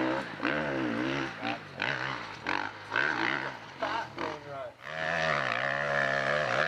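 Off-road vehicle engine running under changing throttle, its pitch rising and falling over and over, with a brief dip in level just before the pitch climbs again.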